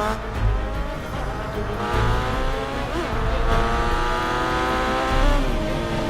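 Vehicle engine revving hard at speed, its pitch climbing, dipping about three seconds in as if shifting gear, then climbing again.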